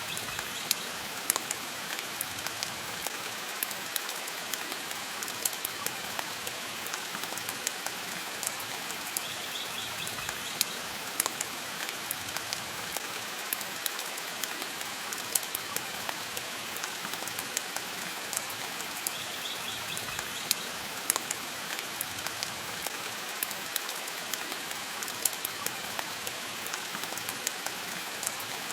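Steady rain hiss mixed with the irregular crackles and sharp pops of a wood fire burning in a fireplace. The pops are the loudest sounds and are scattered unevenly, several every few seconds.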